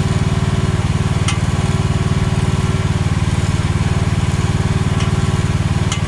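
Small engine of an AGT H13R mini excavator running steadily at an even speed, with no revving.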